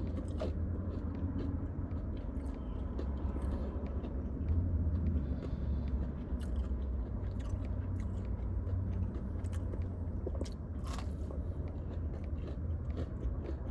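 Close-miked eating of a Chick-fil-A chicken tender: chewing and biting with many small crunches and mouth clicks, over a low steady hum.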